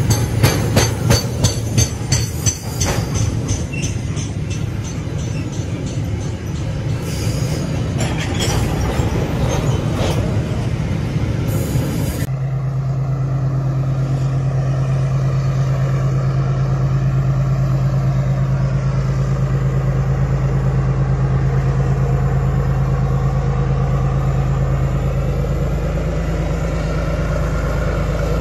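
Loaded pulp-train wagons rolling past close by, their wheels clacking over the rail joints in a repeating rhythm. About twelve seconds in the sound cuts abruptly to a steady low drone.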